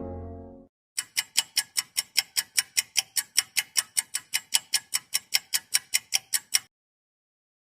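Fast clock-ticking sound effect: evenly spaced sharp ticks, about five a second, that stop abruptly near the end. The tail of a low horn fades out in the first moment.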